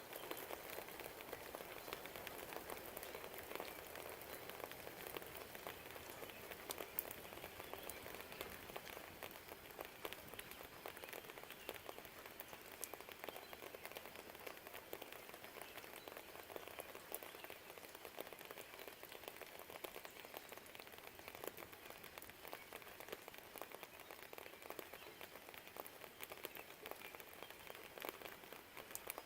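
Steady light rain pattering, with many small drips and drops ticking close by.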